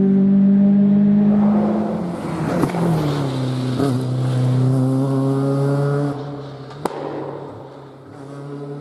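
Rally car engine at high revs, dropping in pitch about two seconds in with a few sharp crackles as the driver lifts off, then running steadily at lower revs. A single sharp crack comes near seven seconds, and the engine fades as the car moves away.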